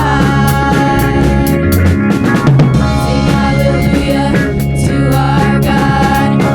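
Band playing an instrumental passage of a worship song, with a drum kit keeping a steady beat of snare and bass drum under sustained chords.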